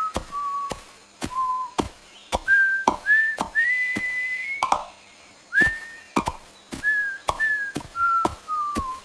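A whistled tune: one pure-toned melody of short held notes, some sliding slightly down in pitch, with sharp clicks between the notes.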